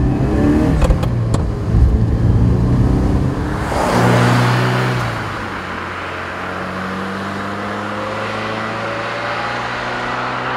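Ferrari 328 GTS's 3.2-litre V8 running under load as the car is driven, loudest in the first few seconds, with a brief rush of noise about four seconds in. After that the engine note steadies and climbs slowly in pitch as the car pulls away.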